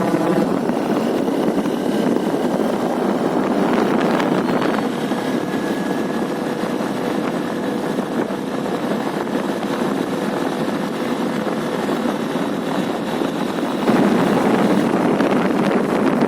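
Steady rush of wind over the microphone on a moving motorcycle, mixed with road and engine noise. It gets louder about fourteen seconds in.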